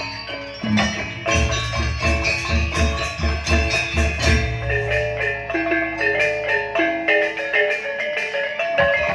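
Gamelan music: metallophones strike a busy melodic figure of ringing notes over a steady low drum beat, and the drum drops out about seven seconds in.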